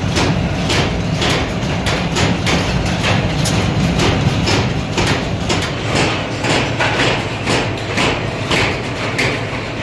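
Workshop machinery in a plier factory: repeated metal strikes, about three a second, over a steady low motor drone.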